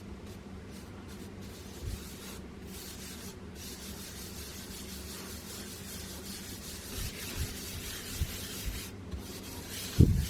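Steady scrubbing against a hard surface, with a few light knocks and one louder thump near the end.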